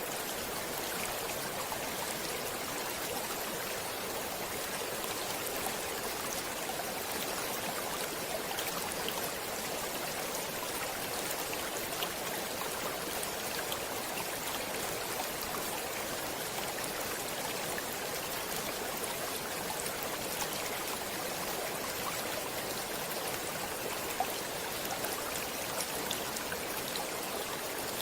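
Stream water running steadily over rocks, an even rushing with small splashes and trickles mixed in.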